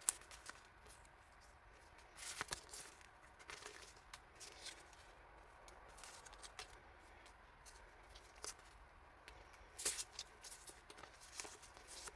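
Faint handling of paper and plastic packaging: scattered rustles, crinkles and small clicks, with louder bursts of rustling about two seconds in and again about ten seconds in.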